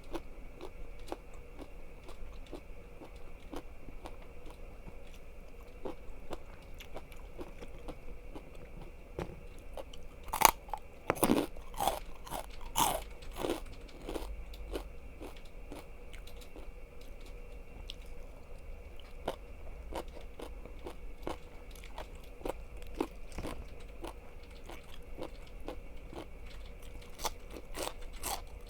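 Close-miked eating: crisp crunching bites and chewing, with the loudest run of crunches about ten to fourteen seconds in.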